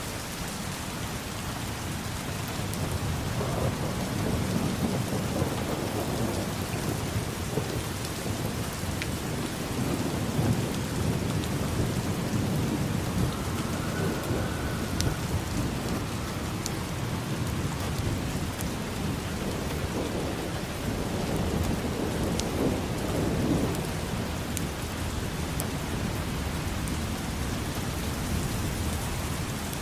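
Steady rain falling, with low rolls of thunder that swell and fade about three times.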